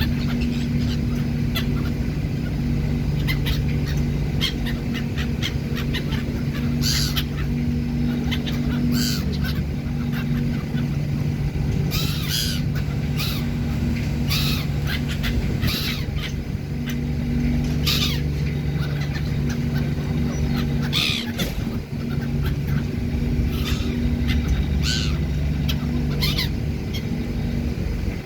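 Herring-type seagulls calling in short, repeated cries over the steady drone of a ferry's engines.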